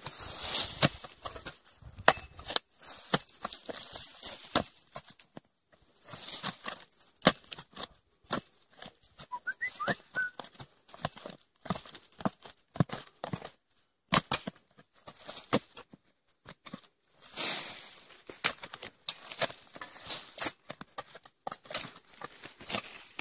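Shovel digging into forest soil around a kudzu root: irregular scrapes, crunches and thuds of the blade, with rustling of leaves and loose earth.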